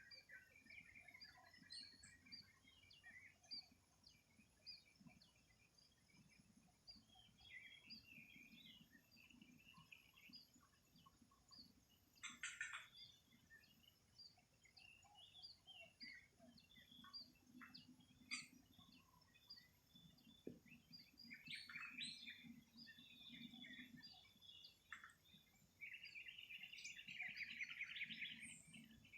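Several birds chirping and calling faintly in a morning chorus: scattered short chirps and whistled notes, with a rapid buzzy trill near the end.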